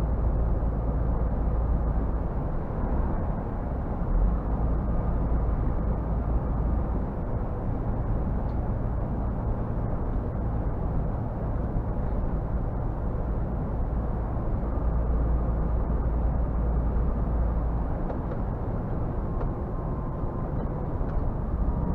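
Scania R 450 truck's 13-litre six-cylinder diesel running steadily while driving, a low drone with road and tyre noise.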